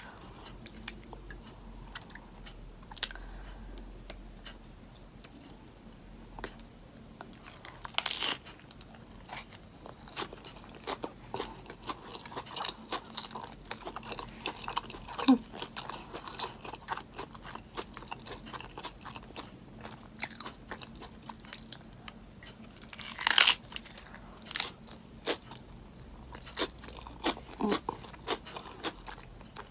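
Close-miked eating sounds: a crisp lettuce-wrapped burger being bitten and chewed, with many short crunches. The two loudest crunches come about 8 seconds and 23 seconds in.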